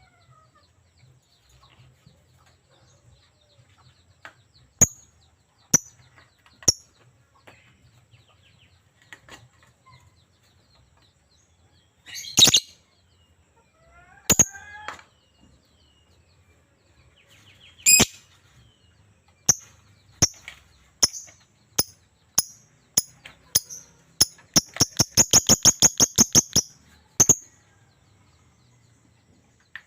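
Lovebird giving short, sharp, high-pitched chirps at irregular intervals, then a fast run of chirps, about ten a second, for a few seconds near the end.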